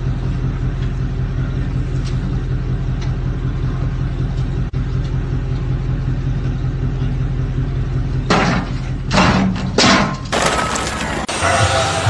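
An engine running steadily, then several loud sudden crashes about eight seconds in.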